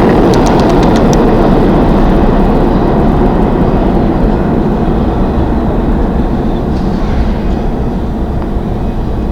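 Subway train running through the station: a loud, steady rumble with a few sharp clicks about a second in, slowly fading over the last few seconds.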